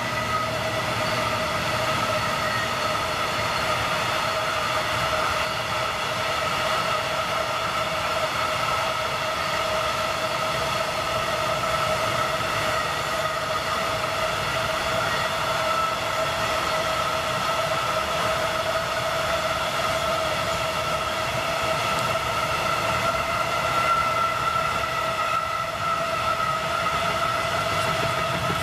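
Long freight train of open coal wagons rolling past on the rails, with a steady high ringing tone held throughout.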